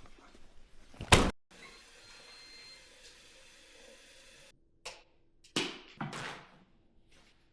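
Sharp thumps of swats at a fly: one loud hit about a second in, then three quieter ones a little past halfway.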